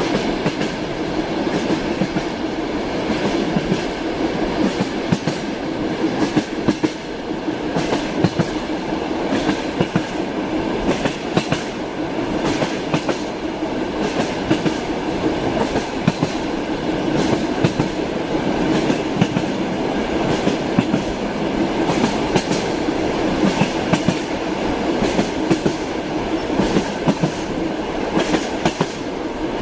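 Moving passenger train heard from inside the carriage: a steady rumble with the wheels clacking over rail joints, sharp clicks coming every second or so, often in quick pairs.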